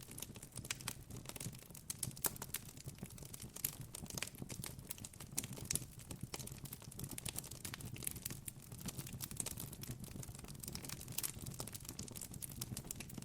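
Campfire crackling: a dense, irregular run of sharp snaps and pops over a low, steady rumble.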